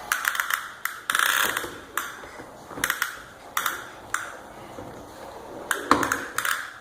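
Toy push vacuum clicking and rattling in irregular bursts as a toddler pushes it along, with short pauses between pushes.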